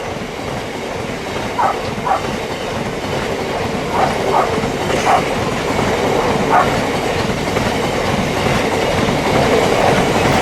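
Freight train rolling past at speed: a steady rolling rumble with the wheels clicking over the rail joints, mostly in pairs as each wagon's bogies go by, every second or two. It grows a little louder toward the end.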